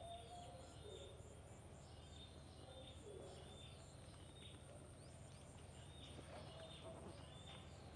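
Near silence outdoors: a bird gives faint short chirps every half second or so, each dropping at the end, over a faint steady high-pitched whine.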